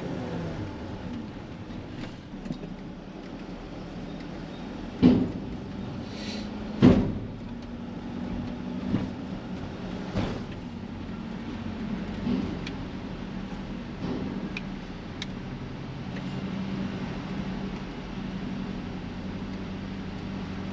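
Van engine running with a steady low hum, with two loud thumps about two seconds apart some five seconds in and a few fainter knocks after: the van's wheels going over a ferry loading ramp.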